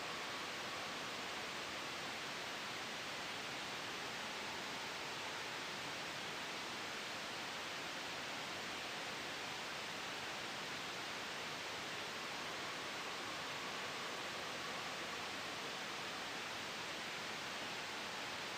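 Steady white noise blended with a soft wind sound: an even, unchanging hiss, strongest in the upper-middle range, with a faint, slowly drifting whistle now and then.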